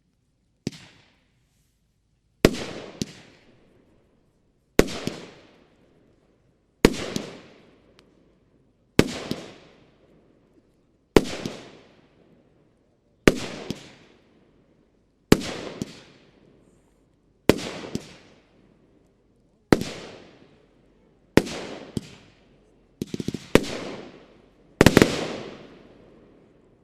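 A 25 mm, 16-shot Bonfireworks Shiny Golden Palms firework battery firing. One shot goes off about every two seconds, each a sharp bang that trails off in a fading hiss, with a quicker cluster of shots near the end.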